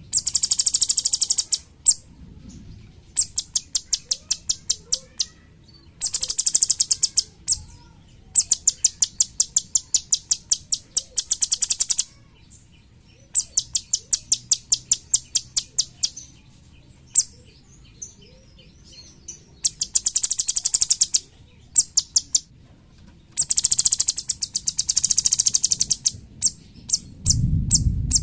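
Cucak cungkok singing: bursts of very rapid, high-pitched trills a second or two long, alternating with strings of sharp separate notes at about four or five a second.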